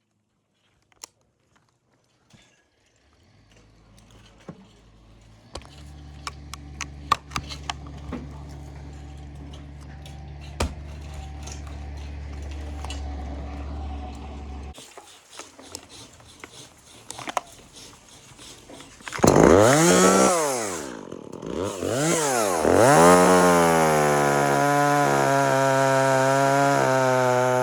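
Chainsaw revved up from low speed, dropped back, then revved again and held at full throttle. Before that, a low steady engine hum with scattered knocks and clicks runs for several seconds and stops.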